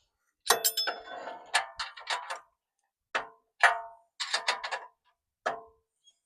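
Wrench clinking against the nuts and bolts of a steel truck bumper, in several groups of sharp metallic clinks that ring briefly: a cluster in the first couple of seconds, then scattered clinks.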